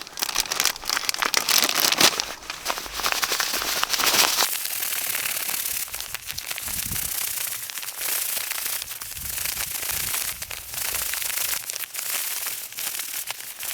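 Plastic wrappers of disposable hot packs crinkling and rustling as they are torn open and handled, a dense, continuous crackle that is loudest for the first four seconds or so.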